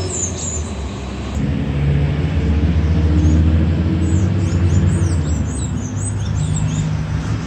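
Car engine running steadily with a low hum, its note shifting slightly a couple of times, while birds chirp in the background.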